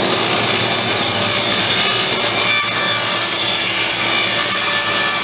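Electric power saw cutting through wood, running loud and steady without a break.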